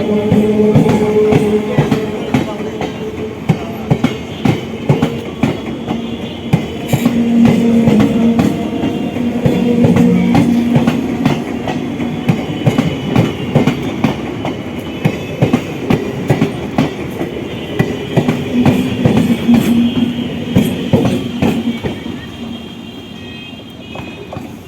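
Electric local train running along the track, its wheels clattering rapidly over the rail joints, growing quieter toward the end.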